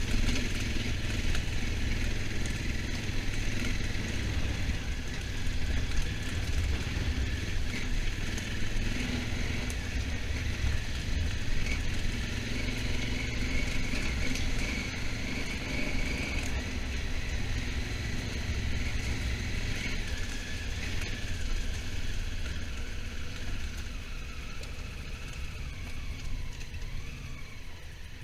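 Honda Africa Twin motorcycle on the move, its engine running under wind rush on the bike-mounted microphone. The sound grows quieter over the last few seconds.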